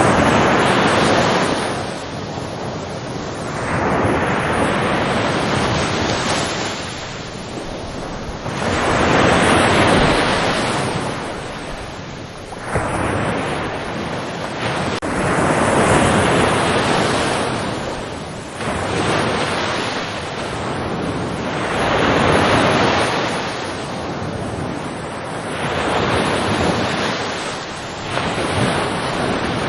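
Ocean waves breaking and washing up onshore in repeated swells, one about every three seconds, with wind on the microphone.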